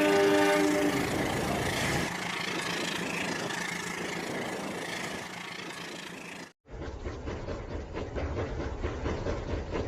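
Rail King battery-powered toy train set: a horn-like whistle sound effect that stops about a second in, then the train running. After a brief cut, it runs on with a low, rattling clatter of fine clicks.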